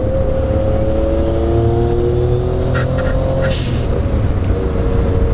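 Big-turbo Suzuki Cappuccino's engine pulling under acceleration from inside the car, its pitch rising slowly. About three and a half seconds in the throttle lifts and the turbo's blow-off valve lets out a short hiss, and the engine runs on at a lower pitch.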